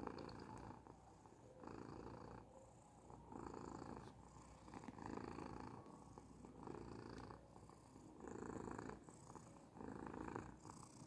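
A Persian cat purring softly, swelling and fading in a steady rhythm about once a second as it breathes in and out.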